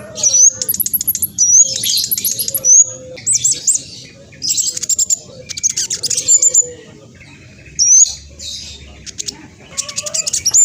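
Black sunbird singing at a fast pace: bursts of rapid high chirps, quick up-sweeping notes and rattling trills with short pauses between phrases.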